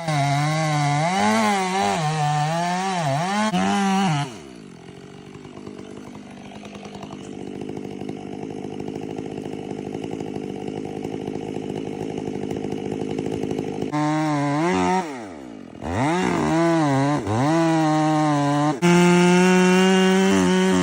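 Chainsaw with a long bar cutting wood, its engine pitch wavering under load. About four seconds in it drops to a steady idle. Near fourteen seconds it revs up and cuts again, holding high, steady revs from about nineteen seconds.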